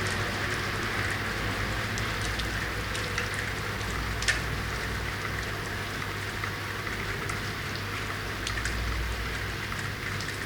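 Steady urban rain falling, with scattered individual drops ticking on hard surfaces and one sharper drop strike about four seconds in, over a low steady rumble.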